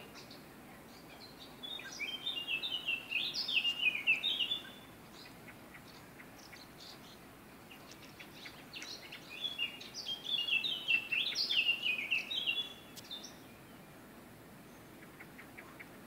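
A songbird singing two long phrases of quick, stepping, high notes, the first about two seconds in and the second about eight and a half seconds in, over a faint steady background hiss.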